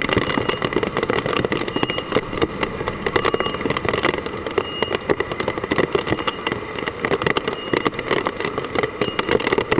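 Hard typhoon rain pelting down, a dense, steady crackle of countless drops striking hard surfaces.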